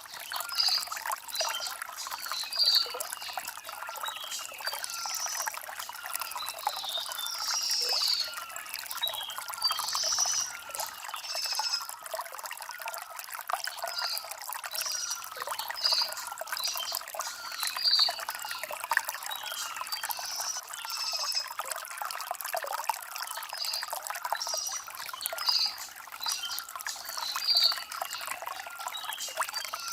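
Shallow stream water trickling and splashing over river stones, a steady rushing babble. Birds chirp throughout, short high calls repeating every second or so.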